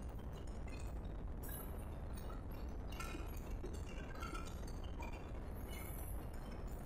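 Indian Railways passenger coach running along the track: a steady low rumble with frequent short metallic clinks and rattles scattered through it.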